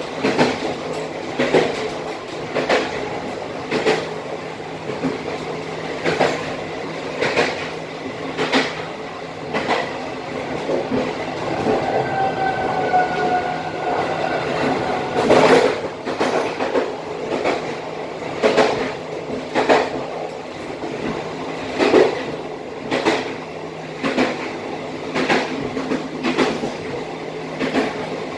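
Passenger train running on jointed track at about 53 km/h: a steady rumble with a regular clickety-clack, a knock from the wheels over the rail joints about every second and a quarter. A faint drawn-out tone falls slightly in pitch just before the middle.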